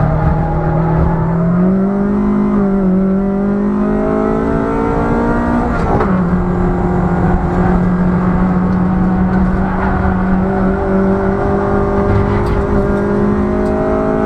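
Ford Fiesta Mk5 Zetec S engine pulling hard at high revs, its pitch rising, then dropping sharply at a gear change about six seconds in before climbing steadily again.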